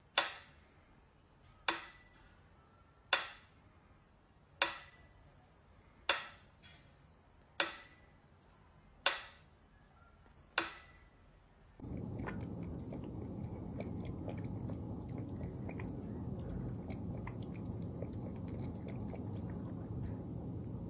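Eight bright, bell-like dings, evenly spaced about a second and a half apart, each struck sharply and left to ring, some with a second, higher ringing tone. After about twelve seconds they stop and a steady low background noise takes over.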